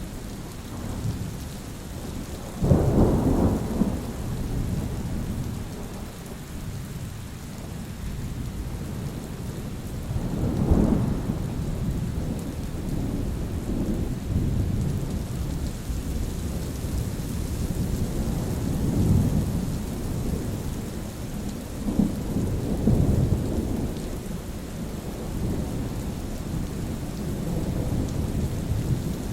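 Steady rain falling with rolls of thunder rumbling low underneath, a sharp, loud clap about two and a half seconds in, another at about ten seconds, and lighter rumbles later on.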